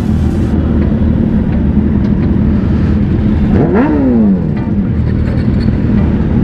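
Motorcycle engine running steadily on the move. A little under four seconds in, an engine revs up briefly and then drops away quickly.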